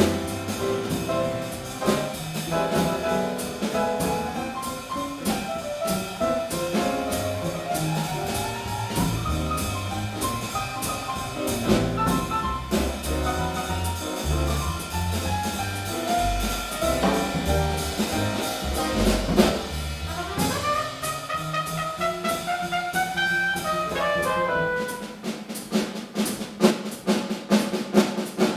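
Jazz quintet playing: a brass horn solo line with rising runs over walking double bass, piano and drum kit with ride cymbal. Near the end the horn and bass drop out, leaving the drum kit playing alone.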